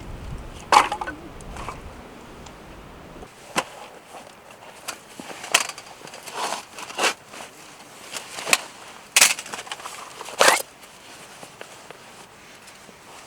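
A series of irregular sharp clicks and knocks, about eight in all, the loudest about a second in. A low hum underneath stops about three seconds in.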